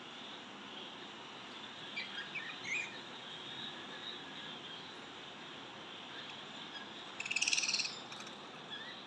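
Budgerigars chirping: a few short chirps, then a louder, rapid pulsed chattering call about seven seconds in, over a steady hiss.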